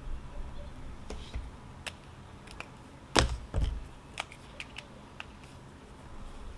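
Scattered light clicks and taps, with two louder knocks in quick succession a little after three seconds in, over a low steady rumble.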